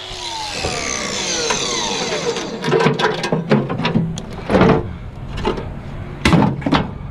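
A falling tone in the first two seconds, then a string of sharp clicks and knocks of hard objects being handled, the loudest about four and a half and six seconds in.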